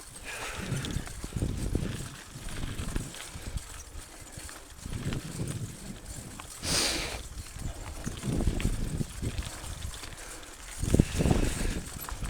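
Mountain bike riding over a rough trail: irregular bumps, knocks and rattles with low rumbling, a brief hiss about seven seconds in and a harder knock near the end.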